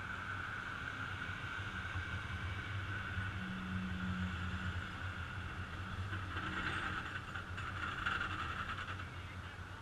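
Heavy diesel truck engine running steadily with a low rumble and a higher steady whine over it. Extra mechanical noise builds up between about six and nine seconds in.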